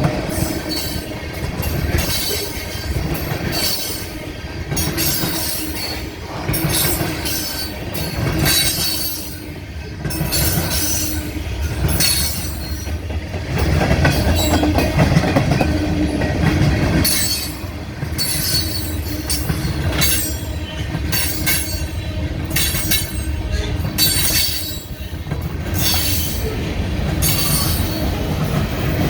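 CSX freight train cars rolling past on the rails, wheels clacking over rail joints in an uneven rhythm, with patches of high-pitched wheel squeal.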